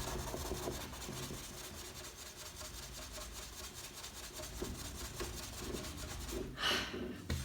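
Fine steel wool rubbing over the soot-stained glass of a fireplace door, a steady scratchy scrubbing. A brief louder hiss comes near the end.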